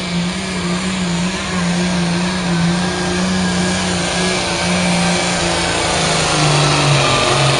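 Competition pulling tractor's engine running hard at full throttle as it drags the weight sled down the track. Its pitch sags slightly about six and a half seconds in as the engine is pulled down under the growing load.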